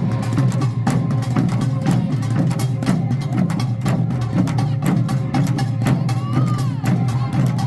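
Korean pungmul percussion band playing a fast, dense rhythm on drums and gongs.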